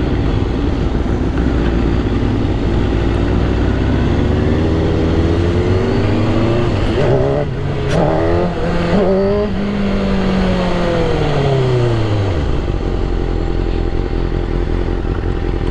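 A 1000 cc superbike's engine revving up over several seconds, with a few choppy breaks near the middle, then winding back down to a low, steady run.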